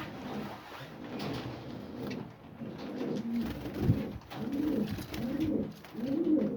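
Pigeons cooing: a series of low coos that each rise and fall, about three in quick succession in the second half. A short sharp thump comes just before them.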